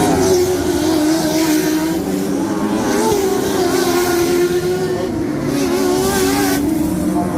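Stoxkart engines running on a shale oval, their pitch rising and falling as the karts race.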